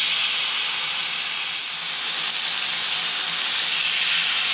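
Marinated chicken sizzling on a hot grill pan, a steady hiss.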